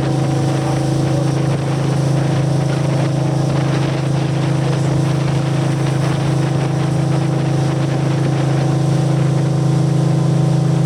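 Diesel engine of a river motor ship running steadily, a constant low drone heard on board, over an even rush of wind and water noise.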